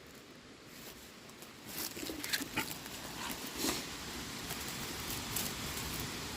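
Rustling and snapping on the forest floor as mushrooms are picked by hand from under the roots of a fallen tree, with irregular sharp clicks of breaking twigs and stems.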